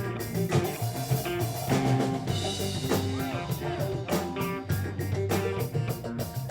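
Jam-band rock music with electric guitar over a drum kit keeping a steady beat.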